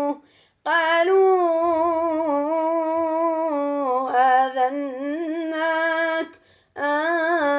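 Male Quran reciter chanting in melodic tajweed style, stretching the word 'qālū' into one long ornamented note with a wavering pitch. The voice breaks off briefly shortly before the end, then takes up the chant again.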